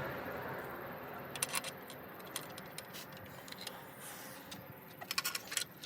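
Light metallic clicks and clinks of tools and engine parts being handled, a few about a second and a half in and a quick cluster near the end, over a faint steady background noise.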